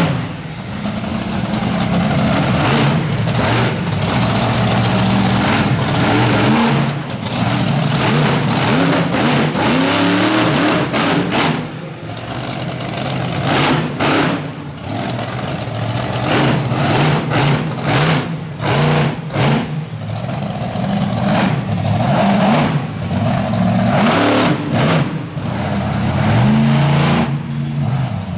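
Monster truck engine revving hard, the pitch climbing and dropping again and again as the throttle is worked.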